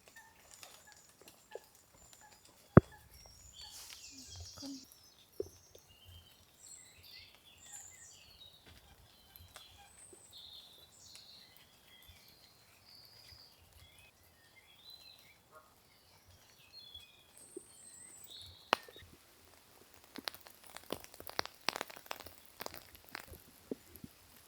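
Small birds chirping and singing in short high calls, with a few sharp taps; near the end comes a quick run of sharp taps.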